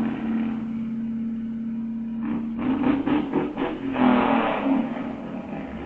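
A passing SUV's engine runs with a steady drone, then gives a quick run of about six sharp bursts a little over two seconds in, followed by its loudest burst of noise about four seconds in, fading as it goes.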